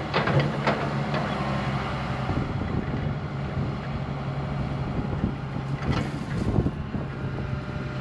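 Diesel engine of a heavy earthmoving machine running steadily under work, with a few knocks about six seconds in.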